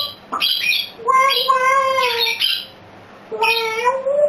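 A bird squawking: a short call, then two long, wavering, drawn-out calls.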